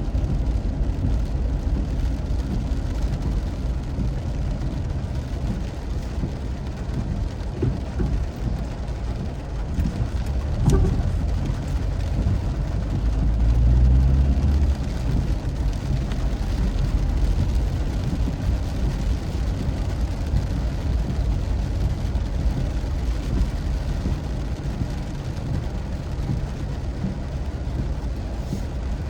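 Steady low rumble of a car driving, heard from inside, with a light hiss of rain and wet road. Near the middle the rumble swells louder for a couple of seconds.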